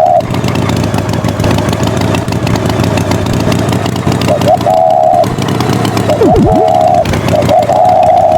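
A tractor engine running steadily, with short high beeping tones repeated several times over it and a falling whistle-like slide about six seconds in.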